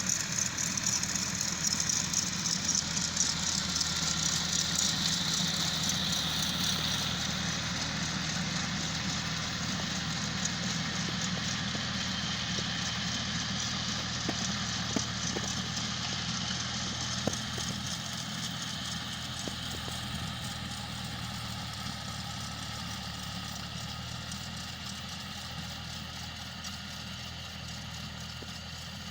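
John Deere tractor's diesel engine running steadily, slowly growing quieter.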